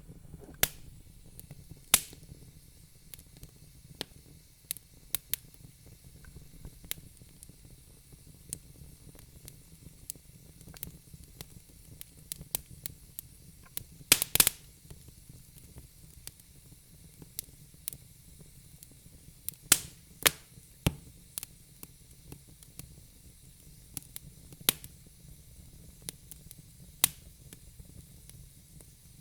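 Wood fire in a fireplace crackling: irregular sharp pops and snaps from the burning logs over a low steady hiss, with a quick run of louder pops about halfway through.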